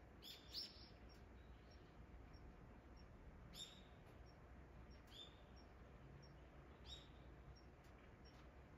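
Faint short bird chirps, a few single calls a second or two apart, over a quiet outdoor background.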